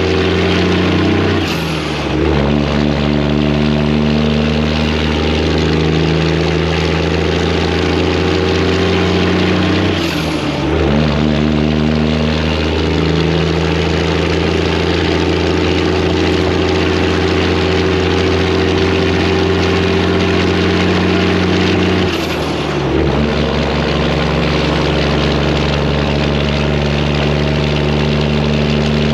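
Freightliner's Detroit diesel engine pulling steadily under load, its drone broken three times, about 2, 10 and 22 seconds in, by a short dip as gears are shifted.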